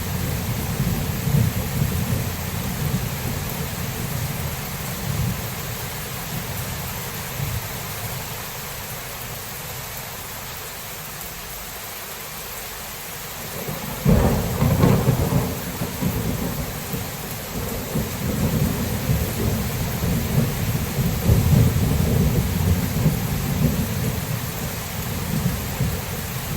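Thunderstorm: steady rain with low rolling thunder. The rumble dies away, then a sudden thunderclap breaks about halfway through and rolls on.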